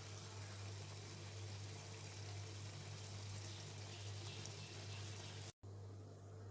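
Chicken gravy bubbling in a kadai on a medium gas flame, cooked through: a steady hiss over a low hum, with a brief cut-out near the end.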